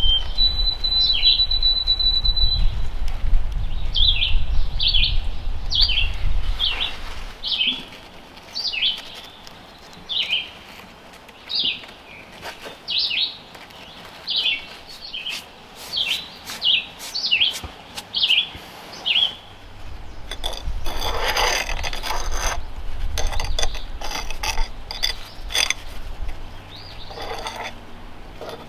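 A bird calling: a long high note, then a run of short, high, downward-sliding chirps about once a second, over a low rumble at first. A few seconds after the chirps stop there is a burst of rustling noise with clicks.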